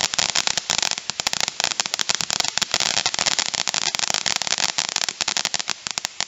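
Consumer firework crackling: a dense run of rapid sharp pops that gradually thins out and stops abruptly near the end.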